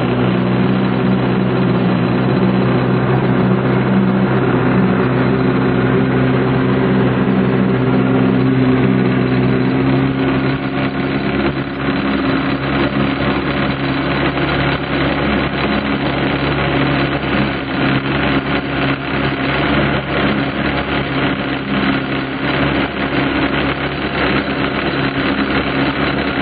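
An engine running steadily at a low, even pitch. About a third of the way in, the sound grows rougher and more uneven.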